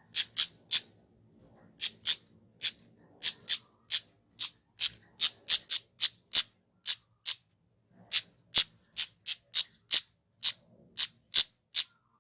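Kemade, a small flowerpecker, calling a string of short, sharp, high chip notes, two or three a second, with a brief pause partway through.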